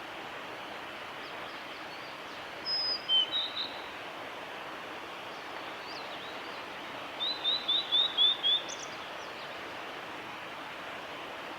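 Male blue-and-white flycatcher singing two short phrases, the second a run of about six quick, slurred notes ending on a higher note, over a steady background hiss.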